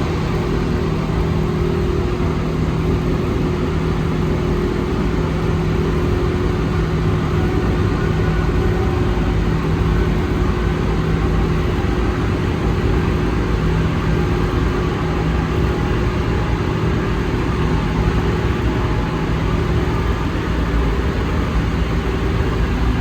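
Interior of an Alstom NS-74 rubber-tyred metro train running between stations: steady running noise with a few steady low tones under it.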